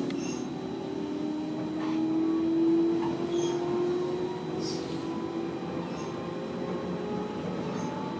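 JR Central 311 series electric train running, its motor and gear whine slowly rising in pitch as it gathers speed over a steady rumble, with sharp clicks every second or so from the wheels.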